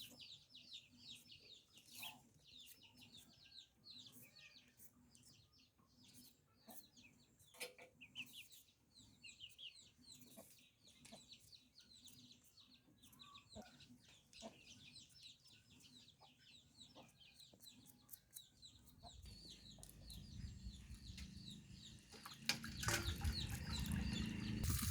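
Chickens calling in a quick run of many short, high cheeps and clucks. A low rushing noise swells up over the last few seconds.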